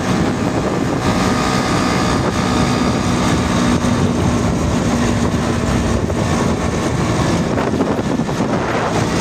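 Muravey three-wheeled cargo scooter's engine running steadily under way, with wind rushing over the microphone.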